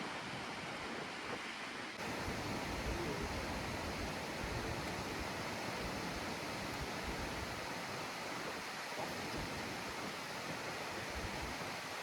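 Steady rushing of flowing water, an even hiss with no distinct events, stepping up slightly in level about two seconds in.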